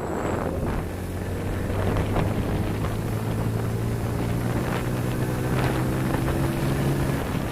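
Motorcycle engine running steadily while riding, with wind rushing over the microphone. The engine note shifts just before the end.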